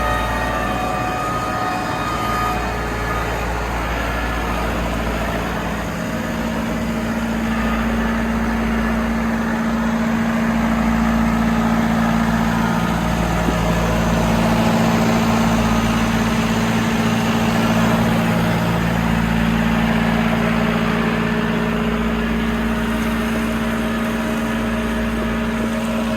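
Tractor engine running steadily with a boom mower attached; about six seconds in, a steady low hum sets in alongside it and holds.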